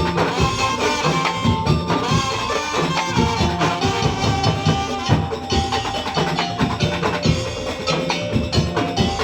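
Madurese ul daul ensemble playing: a dense, driving rhythm of bamboo slit drums and drums under a held, high melody line.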